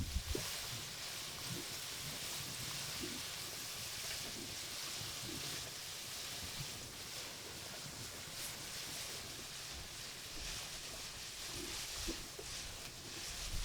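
Food frying in hot oil: a steady sizzling hiss, with a few faint light knocks.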